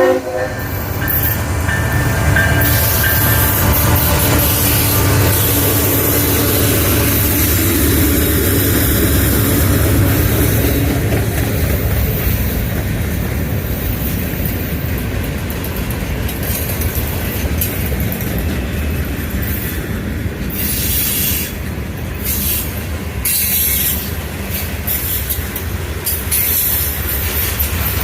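Freight train passing close by: the tail of the locomotive's horn fades out in the first couple of seconds, then a steady, loud rumble of rolling freight cars with wheel noise and high-pitched squealing from the wheels on the rails.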